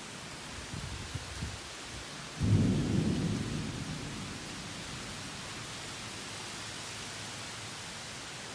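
Steady heavy rain with thunder: a low rumble about a second in, then a loud thunderclap about two and a half seconds in that rolls away over a couple of seconds.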